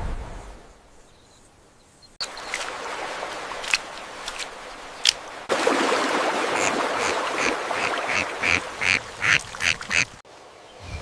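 An animal calling repeatedly: a few scattered calls, then a quick run of about eight short calls over a steady noisy outdoor background, cut off abruptly near the end.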